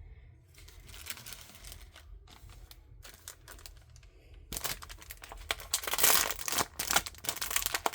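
Packaging crinkling and rustling as it is handled, soft at first, then much louder and denser from a little past halfway.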